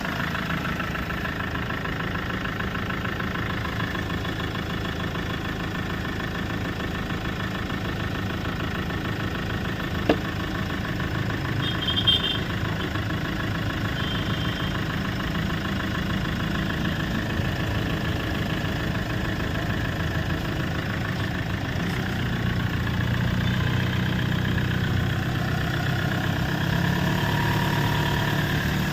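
Car engine idling steadily, getting a little louder for the last few seconds, with one sharp click about ten seconds in.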